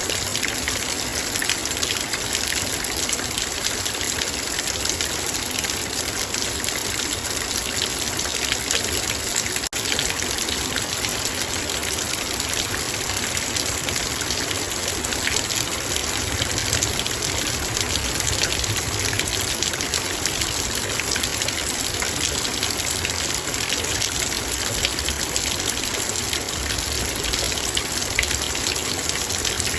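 Heavy rain falling steadily on a metal bowl: a dense, even hiss of countless drop hits.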